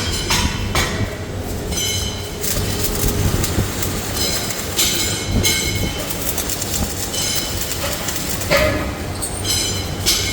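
Metalworking machinery running in a workshop: a steady mechanical rumble with several high metallic squeals, each lasting about a second, and scattered knocks and clanks.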